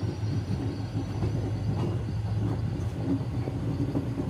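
Running noise of an Indian Railways LHB passenger coach heard from on board as the train pulls out of a station: a steady low rumble with faint, irregular wheel clicks.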